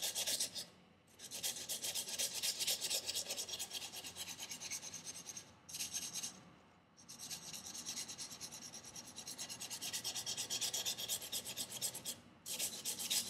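Knife blade stroked rapidly back and forth on 400-grit sandpaper backed by a leather strop: a dry, fast scraping rasp that comes in several runs with short pauses between, as the edge is ground to a convex profile.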